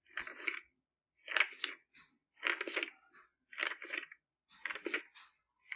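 Pages of a book being turned one after another: a papery rustle with each flip, about once a second.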